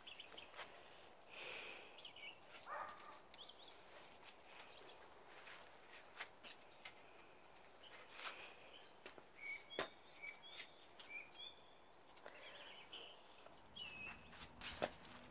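Quiet outdoor ambience with faint, scattered bird chirps and a few light clicks.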